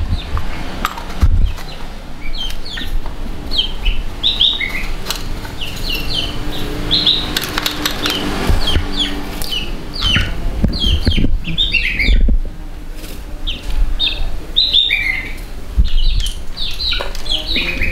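Small birds chirping over and over in short, quick calls. Underneath are occasional low knocks and handling noise from engine parts being fitted.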